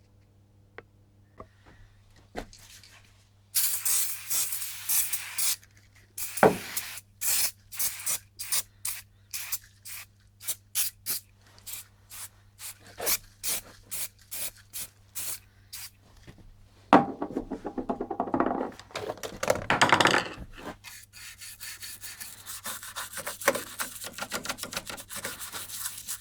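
Handling noise on a bench: a run of sharp clicks and knocks, about two a second, then rubbing and scraping. A steady low mains hum sits under it.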